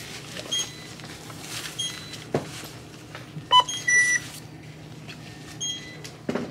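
Self-checkout scanner beeping as items are scanned: a series of short electronic beeps, the loudest two a little past halfway, over a steady low hum.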